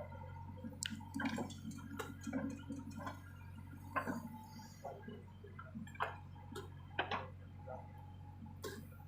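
A steady low hum with scattered, irregular clicks and light knocks.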